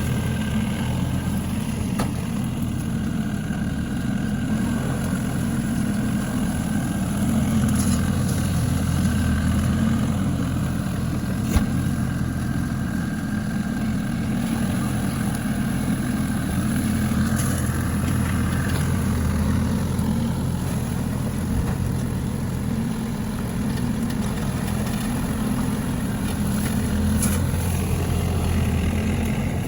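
A heavy vehicle's diesel engine running steadily at an even speed, with one sharp click around the middle.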